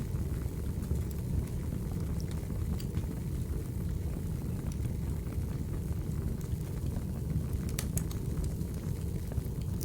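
Firewood burning: a steady low noise of the flames with scattered crackles and pops, a few sharp pops close together about eight seconds in.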